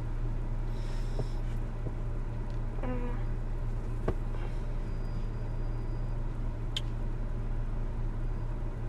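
Steady low car rumble heard from inside the cabin, with a brief click about four seconds in.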